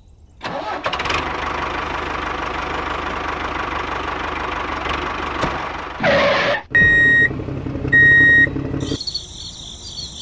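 Tractor engine sound running steadily for about five seconds, with a low pulsing beat. About six seconds in comes a short loud burst of noise, then two short high beeps, and high cricket-like chirping starts near the end.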